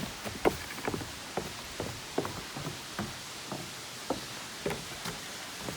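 A hiker's footsteps on a trail, short steady steps at about two a second, over a steady faint hiss.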